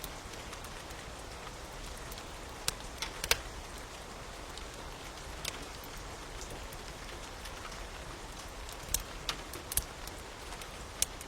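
Steady rain hiss with a wood fire crackling over it: scattered sharp pops, a couple near three seconds in and a cluster around nine to ten seconds.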